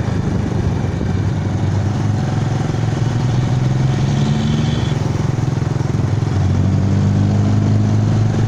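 Motorcycle engine running as it rides along at a steady pace, its note firming up and rising a little about six seconds in.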